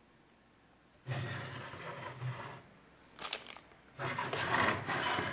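Plastic RC boat hull being handled: rubbing and scraping in two stretches of about a second and a half each, with a couple of sharp clicks between them.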